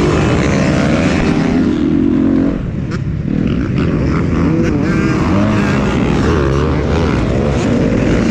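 Several motocross dirt bike engines revving on the track, their pitch rising and falling as the riders throttle and shift, overlapping one another. The overall level drops a little about two and a half seconds in.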